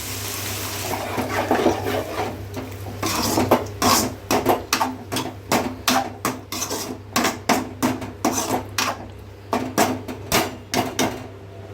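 A spoon stirring and scraping chicken in a frying pan: a sizzle at first, then quick repeated knocks and scrapes against the pan, about two or three a second.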